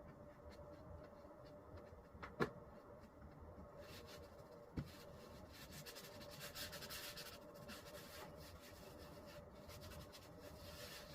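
Faint scraping as Henry Feather Finish cement is spread over a table top, with two sharp clicks a little over two seconds apart and a steady hum underneath.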